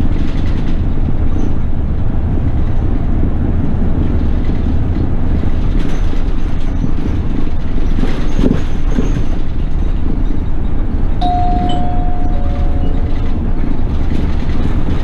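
Toei city bus under way: steady low engine and road rumble. About eleven seconds in, a short tone sounds and steps down to a lower note.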